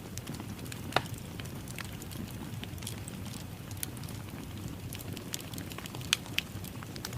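Fireplace fire crackling: a steady low rumble of flame with scattered sharp pops and snaps, the loudest about a second in and around six seconds in.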